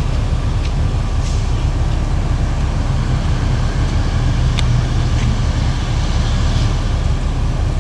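Heavy diesel engines rumbling steadily at a truck unloading from a ferry, with a few light clicks and knocks over the rumble.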